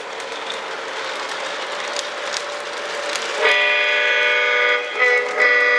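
Lionel O-gauge Santa Fe U28CG model diesel locomotive running on the layout's track with a steady rumble and light clicks. About three and a half seconds in, its sound system blows the diesel air horn: a long blast, a short one, then another long one. The horn has a nice strong sound.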